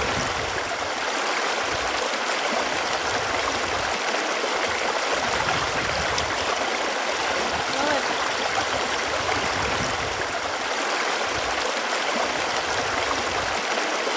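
Running water flowing steadily: an even rushing and gurgling with no breaks.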